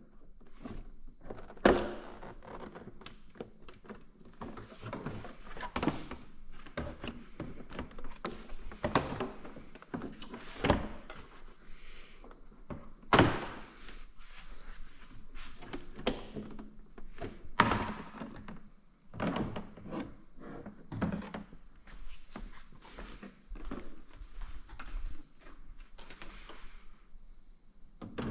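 Irregular knocks, clunks and light rattles of hands-on work on the ATV while the sound bar's wiring is routed, with a few sharp thunks standing out, about 2, 13 and 17.5 seconds in.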